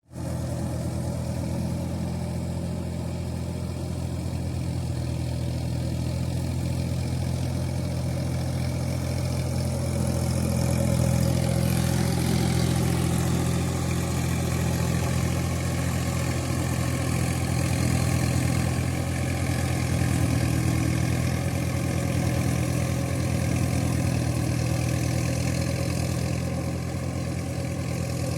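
Sonalika RX tractor's diesel engine running steadily, getting a little louder about eleven seconds in.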